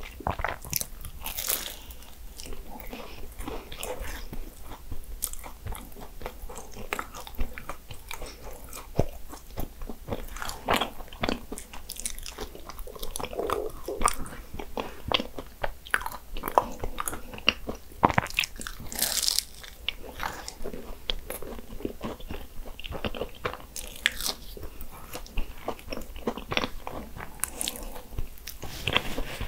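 Biting into and chewing Portuguese egg tarts, the flaky pastry crunching in many irregular sharp crackles.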